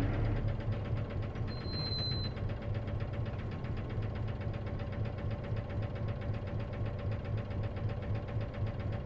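Isuzu KC-LV380N bus engine heard from inside the cabin, running with a fast, even knocking pulse and a steady whine over it. This bus has an unusual noise that the owner likens to other manual-transmission buses and suspects is a manual-transmission symptom. A short high-pitched tone sounds about two seconds in.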